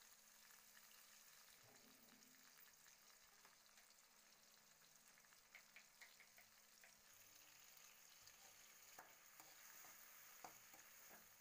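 Faint sizzling of chopped tomatoes and spices frying in oil in a kadhai, with a few light clicks and scrapes of a steel spoon stirring in the second half.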